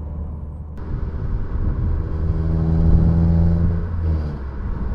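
Renault Sandero R.S.'s 2.0-litre four-cylinder engine, fitted with a cold air intake, pulling at low revs in fifth gear. It is a steady low drone that grows louder and rises slightly in pitch around the middle, then eases off about four seconds in.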